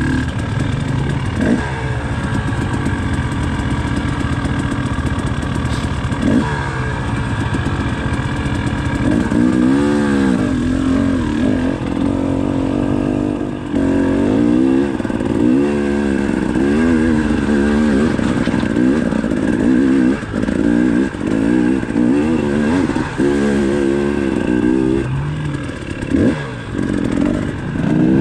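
Dirt bike engine running on a rocky trail climb, steady at first, then repeatedly revving up and dropping back from about ten seconds in as the throttle is worked.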